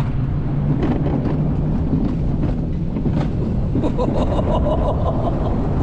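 Alpine coaster sled running along its metal track, a steady rumble of wheels on rail with wind buffeting the microphone and scattered clicks and rattles.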